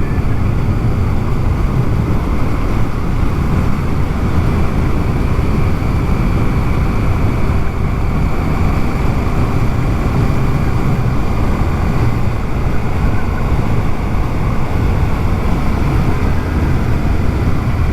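Honda Africa Twin's parallel-twin engine running steadily at highway cruising speed, mixed with a constant rush of wind over the rider's microphone.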